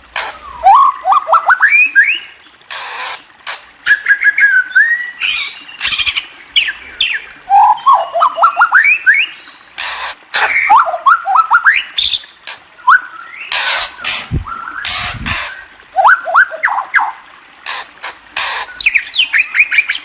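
A songbird singing close to the microphone: quick runs of short rising whistled notes and brief warbles, with sharp loud clicks between the phrases.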